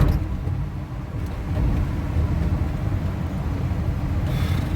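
Box truck driving in city traffic: a steady low engine and road rumble, with a brief hiss near the end.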